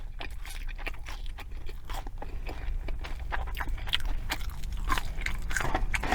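Close-miked chewing of a mouthful of McDonald's McRib sandwich: irregular wet crunches and clicks, with the onions giving it a crunch, growing busier near the end.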